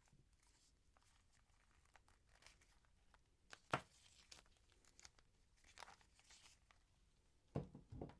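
Packaging being handled and torn open: scattered soft rustles, crinkles and small clicks, with a sharper knock a little under four seconds in and two more near the end.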